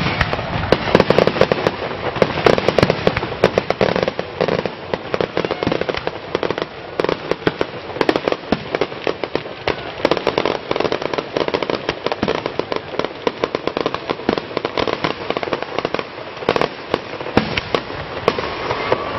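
Fireworks display: a dense stream of rapid crackling and popping, many sharp little bangs a second, with louder reports among them.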